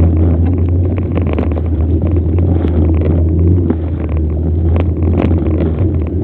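Bicycle being ridden: a steady low rumble with frequent small rattles and clicks throughout.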